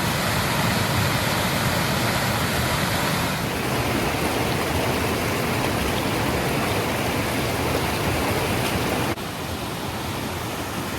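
Waterfall rushing, a steady, full roar of falling water. About nine seconds in it drops suddenly to a slightly softer level.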